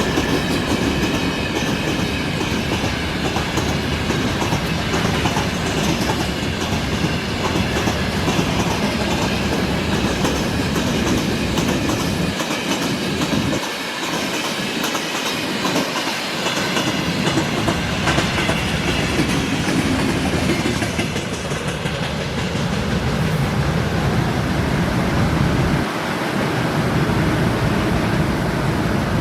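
A long train rolling past at close range, its wagon wheels clattering rhythmically over the rail joints.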